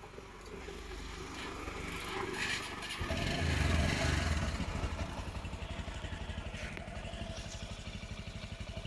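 Bajaj Discover 135 motorcycle's single-cylinder engine, freshly rebuilt with a new piston, rings and valves, running: it grows louder over the first few seconds, peaks with a brief rise in revs about three to four seconds in, then settles into a steady idle with an even beat.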